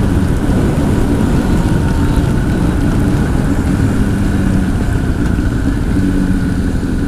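Honda CBR1000 sportbike's inline-four with a Two Brothers aftermarket exhaust, running at a steady cruise, heard from a helmet mic under heavy wind and road noise.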